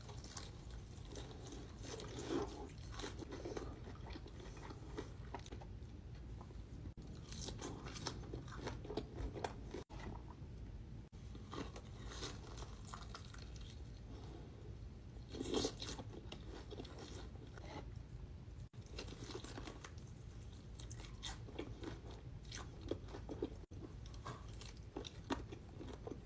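A person chewing and biting into crunchy food, close to the microphone: faint, irregular crunching and chewing, with one louder burst a little past the middle.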